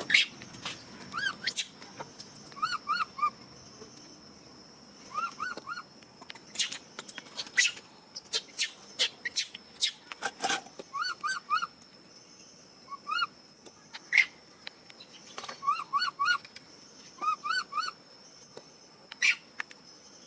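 A baby monkey calling in short, arching squeals that come in quick runs of two to four, again and again, with sharp clicks between them and a steady thin high whine behind.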